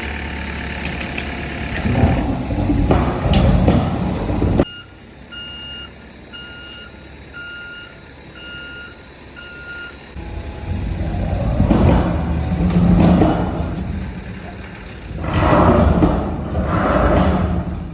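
Heavy vehicle engine running loud and revving, dropping away suddenly about four and a half seconds in; then a reversing alarm beeping about once a second for some five seconds, before the engine revs up again in two loud surges.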